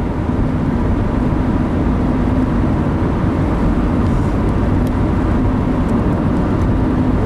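Steady road noise inside a moving car's cabin: tyre and engine rumble with a faint steady hum.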